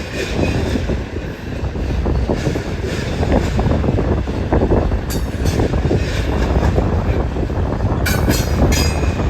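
BNSF train cars rolling past with a steady rumble and rapid clacking of wheels over the rail joints. Short high-pitched wheel squeals come about five seconds in and again near the end.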